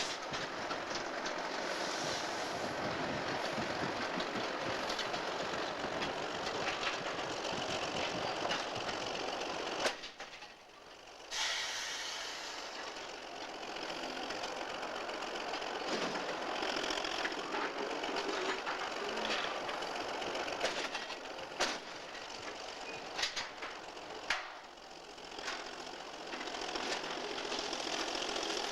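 Diesel switcher locomotive running as it works coal cars, a steady engine drone with a few sharp clanks. The sound drops out briefly about ten seconds in.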